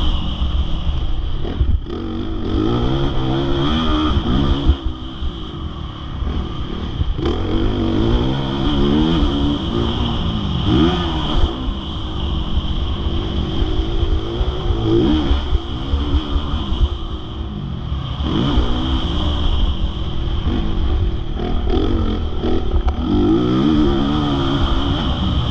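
Motocross bike engine revving hard and easing off again and again, its pitch climbing through the gears and dropping, over a constant low rumble of wind.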